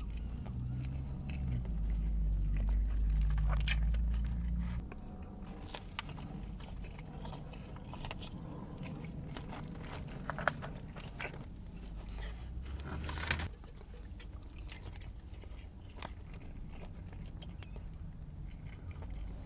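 Close-miked mouth sounds of someone eating: chewing and biting food with scattered crunches and clicks. A heavy low rumble fills the first five seconds, and a louder crunch comes about thirteen seconds in.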